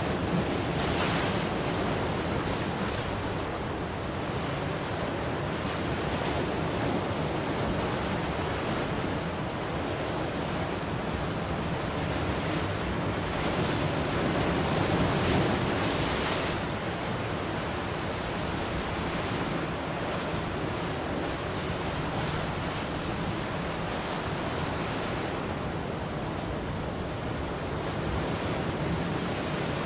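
Ocean surf: waves breaking and washing in as a continuous rush, swelling louder about a second in and again for a few seconds around the middle.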